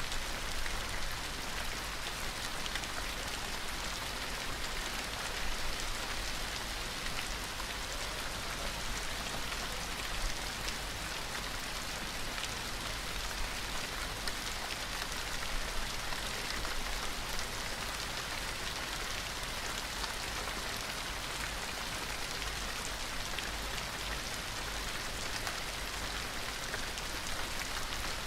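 Steady gentle rain falling, a dense hiss of pattering drops with no let-up.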